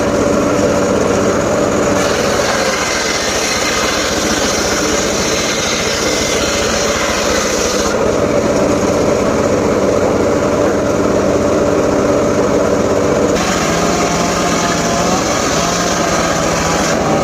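Small engine of a wood saw running steadily at high speed, its pitch shifting a little near the end.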